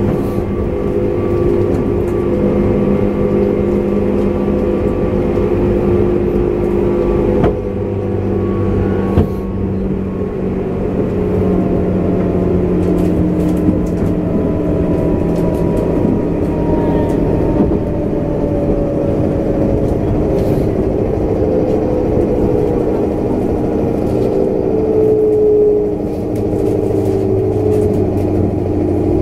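Interior running sound of a JR West 201 series electric train: a steady hum of its thyristor-chopper control and motors over wheel and rail noise, with a couple of sharp knocks about eight and nine seconds in. In the second half the motor tones slide downward in pitch, as the train slows for a station stop.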